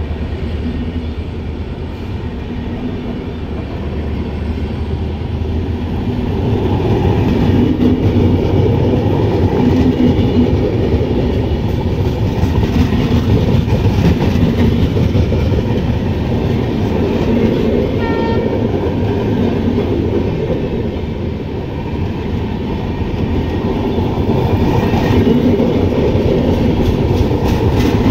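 Passenger coaches of an Indian Railways express running past close by, LHB coaches followed by older ICF coaches: a steady rumble and rattle of wheels on the rails that grows louder about six seconds in.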